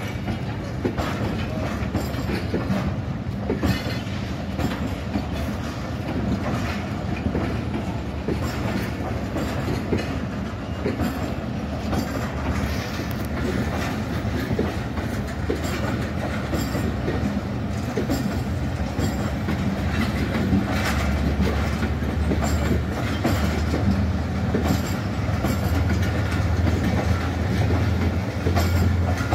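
Passenger coaches of the Jaffar Express rolling past close by, with a steady rumble and a continuous clickety-clack of wheels over rail joints. The low rumble grows louder about two-thirds of the way through.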